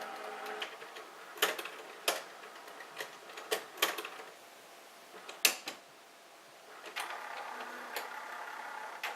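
Canon Pro-100 inkjet photo printer running its internal mechanism by itself a few minutes after printing. A motor whine gives way to a series of sharp clicks and clunks, and the motor whines again near the end. The owner takes it for a print-head cleaning cycle, though he is not sure.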